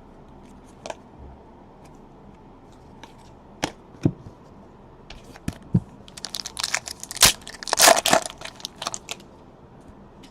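Plastic trading-card pack wrapper handled and torn open: a few separate clicks and taps, then a run of crinkling and tearing from about six to nine seconds in.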